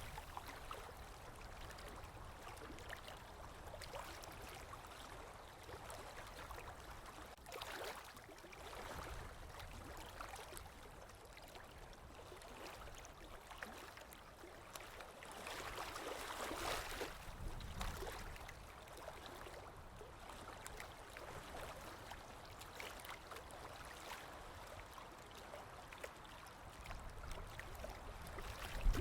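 Water flowing and trickling in a steady wash, swelling louder briefly about eight seconds in and again around sixteen to eighteen seconds.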